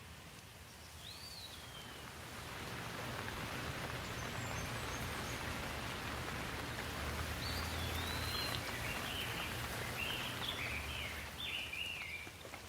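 Steady rain falling, swelling in over the first couple of seconds and easing near the end, with a bird chirping once early and then calling repeatedly in quick phrases through the second half.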